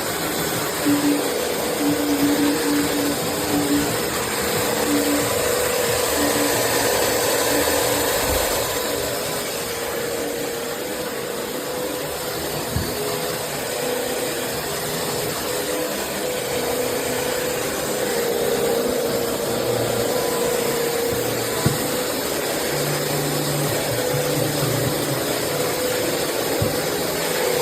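Bissell CleanView Swivel Pet upright vacuum cleaner running steadily, a continuous motor and suction noise with a hum that comes and goes.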